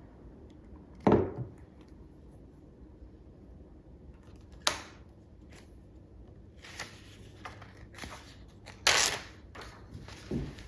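A few separate knocks and clatters of objects being handled. The loudest come about a second in and again about nine seconds in, with lighter taps between.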